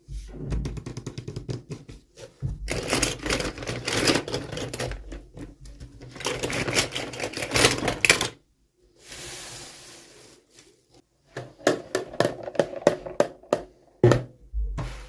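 Hands opening plastic toy packaging: rapid clicking and crinkling, a smooth rasping sweep like tape or film peeling about nine seconds in, then more clicks and a sharp knock near the end.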